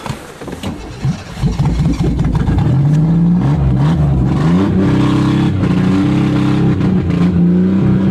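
Car engine firing up about a second and a half in on a cold start, revved up several times, then holding a steady fast idle.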